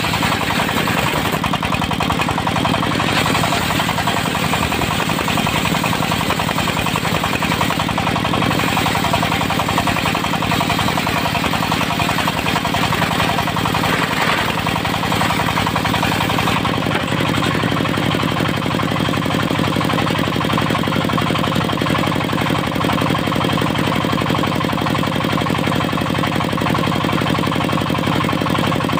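Dongfeng diesel engine driving a portable circular sawmill, running steadily with a fast knocking beat. The higher, hissing part of the sound drops away about sixteen seconds in.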